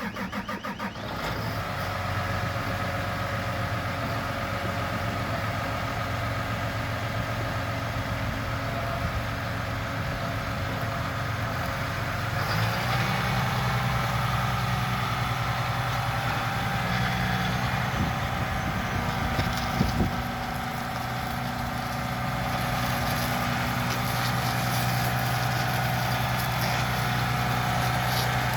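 John Deere 7200R tractor's six-cylinder diesel engine just after starting, running unevenly for about a second and then idling steadily. About twelve seconds in, the engine note steps up a little and holds there.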